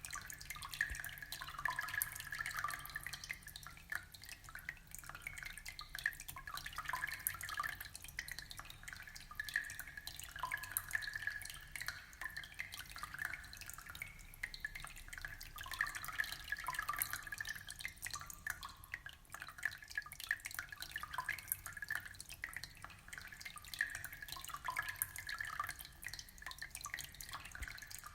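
Aquarium water trickling and dripping: a steady, dense patter of small drips and bubbles.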